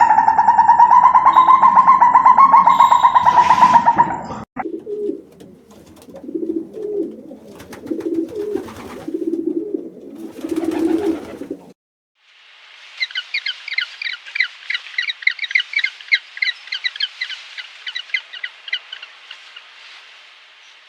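A loud call held on one pitch for about four seconds, then pigeons cooing over and over in low notes, then, after a short break, a small bird chirping rapidly in a long twittering run.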